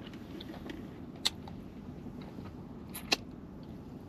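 Steady low rumble with two sharp clicks, one about a second in and one about three seconds in.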